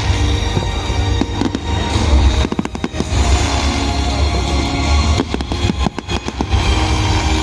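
Fireworks going off in a display: clusters of sharp bangs and crackles over a deep rumble, with music playing underneath.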